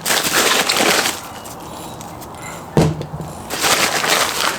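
Rustling and handling of packaging while unboxing a set of 3D-printed plastic bump stops, with one sharp knock about three seconds in as a part is set down.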